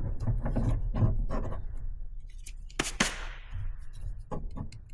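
Handling noise from car intake parts being worked into place: rubbing, small knocks and clicks, with a sharp knock about three seconds in that trails off in a short hiss.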